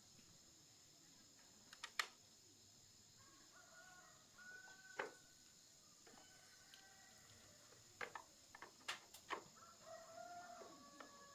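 A rooster crowing faintly twice, a long drawn-out call about three seconds in and another near the end, with several sharp clicks or knocks in between.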